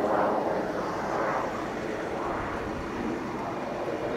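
BAe Hawk Mk 51 jet, its Rolls-Royce Turbomeca Adour turbofan heard as a broad rushing roar that swells and eases several times.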